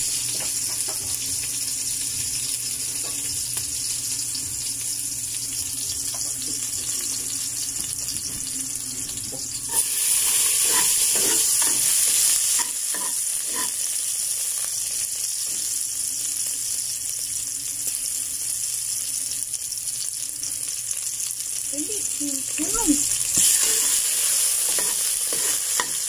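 Chopped garlic, onion and chili sautéing in hot oil in a metal pot: a steady sizzle, with stirring scrapes. The sizzle grows louder for a couple of seconds about ten seconds in and again near the end, as more pieces go into the oil.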